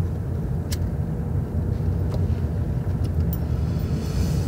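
Steady low rumble of a car being driven, heard from inside the cabin, with a few faint clicks.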